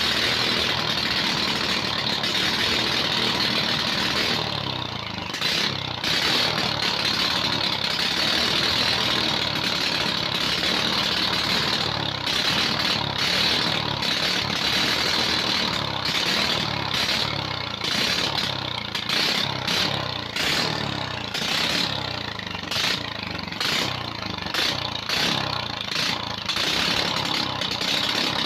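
Rebuilt Loncin 7 hp single-cylinder four-stroke engine running after its overhaul, its speed wavering slightly up and down.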